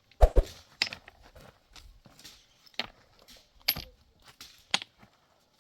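Irregular sharp knocks and clicks, with a heavier thump just after the start.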